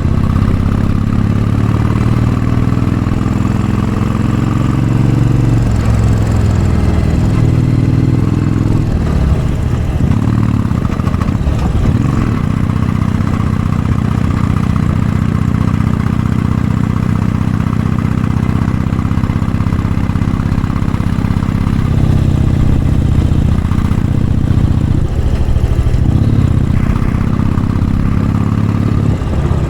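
Royal Enfield Bullet 500 single-cylinder engine running through a baffled Mass Moto Bottiglia exhaust under load on a steep climb. The engine note drops and picks up again several times.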